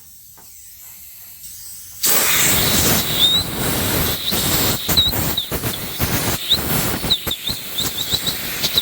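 Pressurised spray hissing in one long blast of about seven seconds that starts and stops abruptly, with faint high chirps and small rattles through it, blowing out the freshly tapped bolt holes of the axle's differential.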